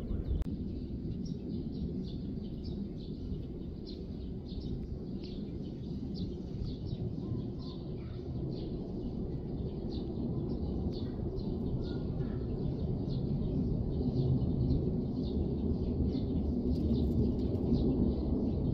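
Small birds chirping, many short high chirps in quick succession, over a steady low outdoor rumble.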